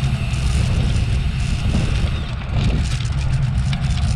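Steady wind rumble on an action camera's microphone while riding a road bicycle at speed, with road and tyre noise underneath.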